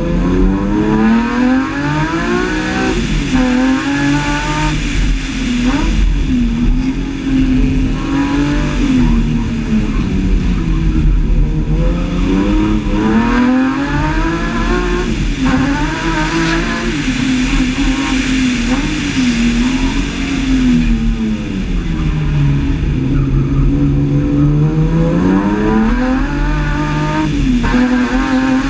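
BMW E30 with a swapped-in S50B32 3.2-litre straight-six, revved hard through a tight course. The engine note climbs and falls over and over, with several brief breaks where the driver lifts or shifts.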